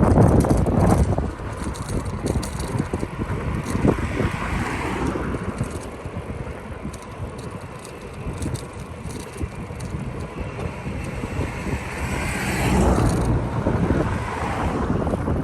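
Wind buffeting the microphone while riding a bicycle, with small rattles and clicks from the bike. The wind rumble is heavy for about the first second, then lighter.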